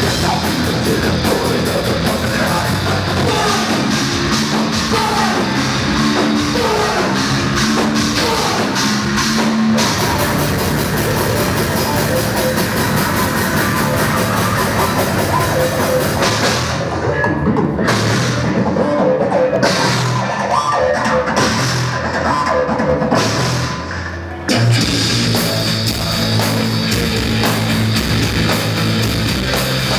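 Loud heavy rock played by a band with a drum kit. Past the middle the cymbal-rich top end drops away for several seconds, then the full band comes back in with a hit near the end.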